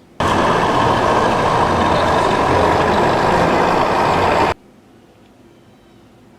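A loud, harsh vehicle-like engine sound, running about four seconds, that starts and cuts off abruptly.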